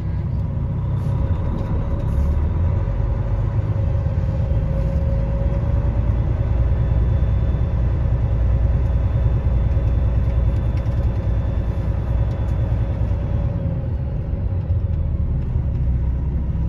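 Tanker truck's diesel engine running, heard from inside the cab as a steady low rumble with a faint whine over it.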